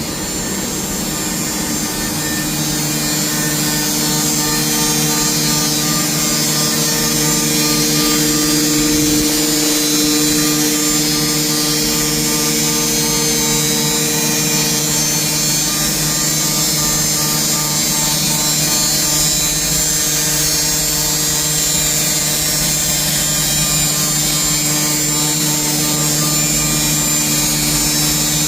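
CNC milling machine cutting metal: a steady spindle hum of several constant tones under a high hiss from the cut, rising a little in level over the first few seconds.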